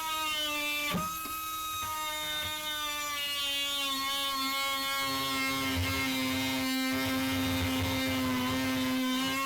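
Power grinder motor running with a steady whine; about four seconds in its pitch sags slightly and a low rumbling grind comes in as it bites into the metal, cutting off stripped nuts.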